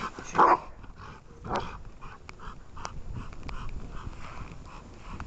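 Dog barking: two loud barks, then a run of quieter barks at a steady pace.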